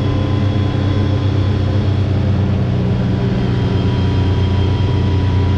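Side-by-side UTV engine running at a steady cruising speed while driving, with a faint steady whine over it.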